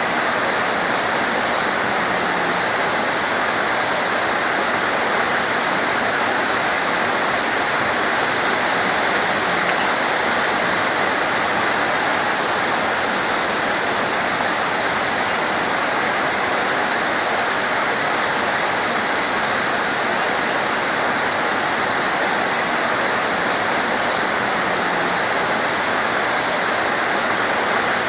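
Torrential rain falling steadily, a dense, unbroken hiss of water with no let-up.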